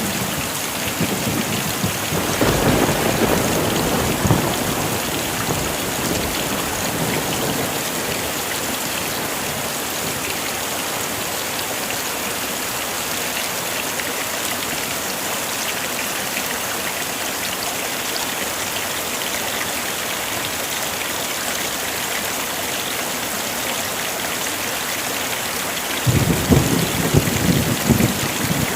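Heavy rain falling steadily, with thunder rumbling twice: once a couple of seconds in and again near the end.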